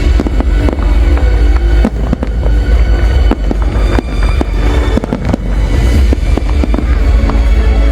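Large fireworks display going off non-stop: a dense, irregular run of bangs and crackles over a heavy deep rumble, with music playing alongside.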